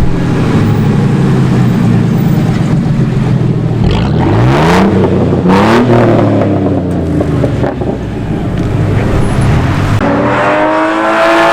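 Sports car engines running low as cars pull away, with engine notes rising sharply in revs about four to six seconds in, and another engine climbing to a higher pitch near the end.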